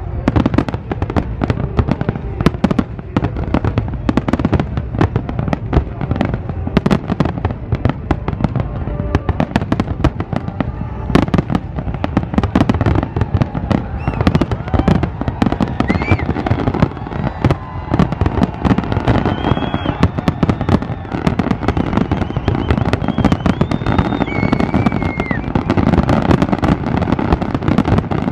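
Fireworks display with aerial shells bursting in a dense, continuous barrage of overlapping bangs and crackles.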